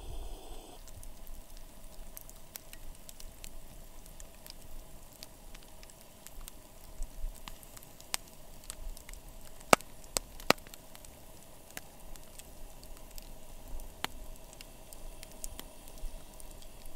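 Wood campfire burning with a faint hiss and scattered crackles and pops, the sharpest two about ten seconds in.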